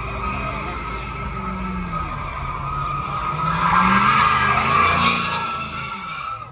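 A car's tyres squealing in a long steady screech as it does a burnout or donut, its engine revving underneath. The squeal swells loudest about halfway through, then eases off near the end.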